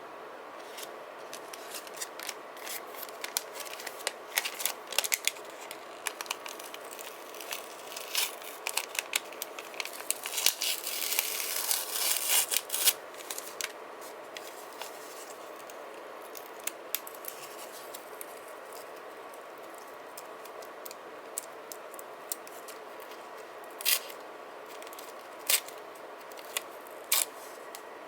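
Paper-craft handling at a desk: scissors snipping and paper and sticker sheets crinkling and scraping, densest in the middle, then a few sharp clicks and taps near the end. A faint steady hum runs underneath.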